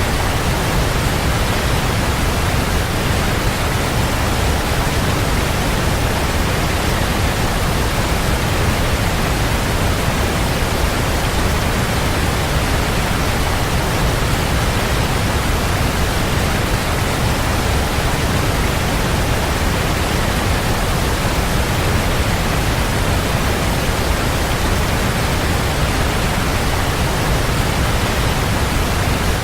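Waterfall: a steady, even rush of falling water with a deep low rumble, unchanging throughout.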